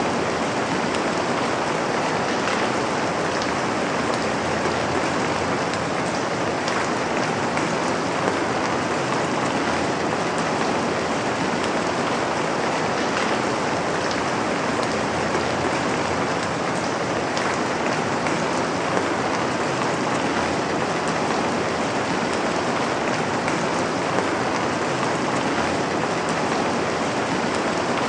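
Steady, dense rain falling on a surface, an even hiss with faint scattered drop ticks and no breaks.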